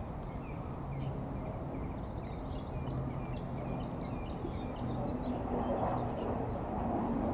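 Small songbirds chirping with many short, high calls. Underneath runs a steady low hum, and a rushing noise grows louder from about five seconds in.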